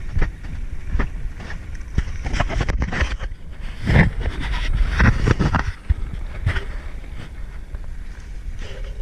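Wind rumbling on the microphone during a bicycle ride, with scattered knocks and rattles from the bike. The rumble grows louder for a couple of seconds around the middle.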